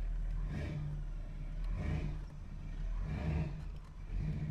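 Car engine and road noise while driving: a steady low hum that swells and eases four times.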